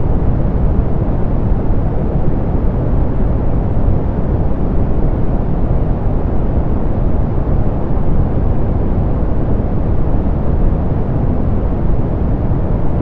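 Steady soft pink noise: an even hiss, heavier in the low end and rolled off in the highs, unchanging throughout.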